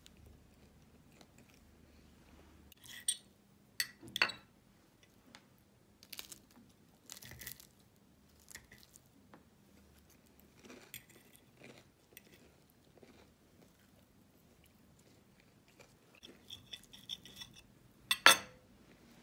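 Scattered light taps, clicks and clinks of small objects being handled on a hard surface, with a short rattle near the end and then one sharp knock that rings briefly.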